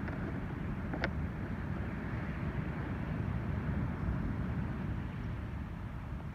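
Ocean surf breaking, heard as a steady low rumble with wind buffeting the microphone.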